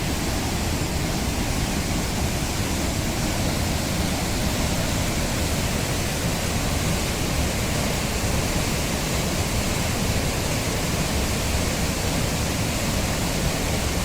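Nunobiki Falls waterfall pouring heavily, a steady, unbroken rush of water swollen by recent rain.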